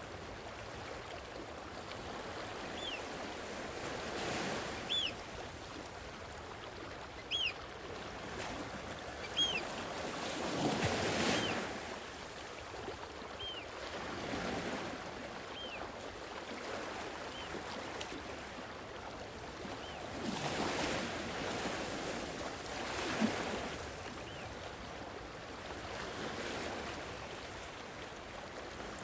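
Gentle sea waves washing in, swelling and falling back every few seconds, with the largest surge about a third of the way through. Short high chirps repeat every second or two over the first two-thirds.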